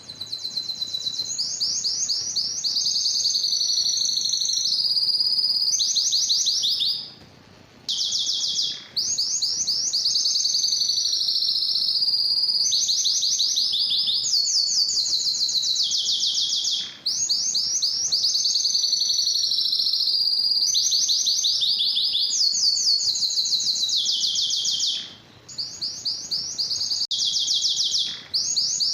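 Domestic canary singing a long, high-pitched song of rapid trills and rolling phrases. It breaks off briefly about seven seconds in and again near the end.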